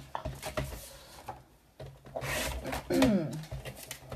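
Sheets of card being handled and slid across a craft desk: scattered light taps, a scraping rub about two seconds in, and a louder scrape with a short falling squeak about three seconds in.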